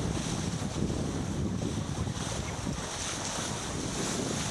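Wind buffeting the microphone over the steady rush of water along a sailboat's hull.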